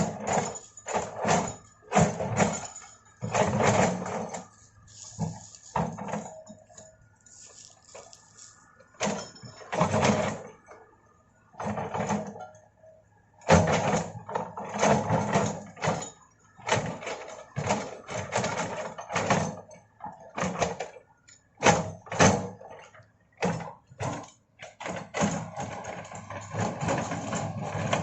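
Komatsu hydraulic excavator at work: the engine runs under a string of irregular loud surges and noisy bursts, one every half second to second or so.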